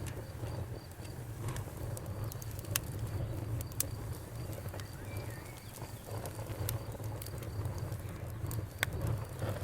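Wood fire burning in a fireplace, crackling with scattered sharp pops and snaps over a low, steady rumble of the flames.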